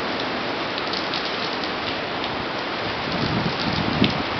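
Hurricane rain pouring down onto pavement and roofs in a steady, dense hiss, driven by gusting hurricane-force wind, with low rumbling swells of wind about three seconds in.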